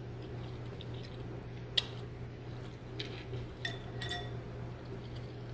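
Eating at a bowl of noodle stew: a sharp clink of a utensil against the dish nearly two seconds in, then a few ringing clinks around four seconds, with soft wet eating noises between, over a steady low hum.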